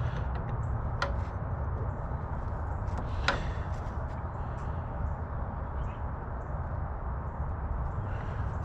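Steady low hum with a few scattered short clicks and knocks, the loudest about three seconds in, typical of parts and tools being handled during car disassembly.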